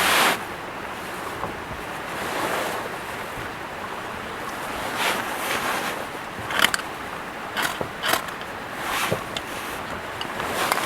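Dry sticks and bark being handled and laid onto a fire bed: rustling with several short, sharp cracks and scrapes, over a steady rushing background.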